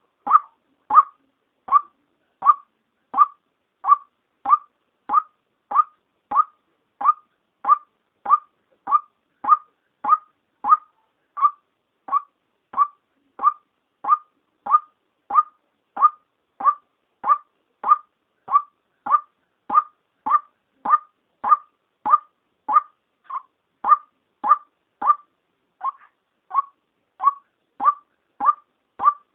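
White-breasted waterhen female call: a single short note repeated evenly, about one and a half times a second, used as a lure call to draw the birds in.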